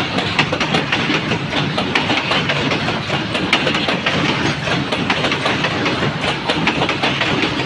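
Freight train running past at high speed: a steady loud rumble with wheels clattering and clicking over the rails.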